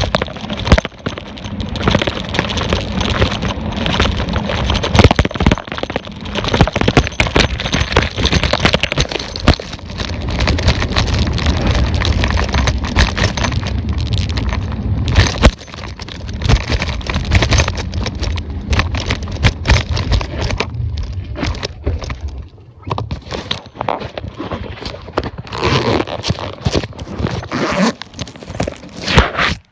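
Mountain bike riding over rough ground: dense crackling and clattering from the tyres and the rattling bike, over a low rumble of wind on the microphone. It eases off briefly about three-quarters of the way through.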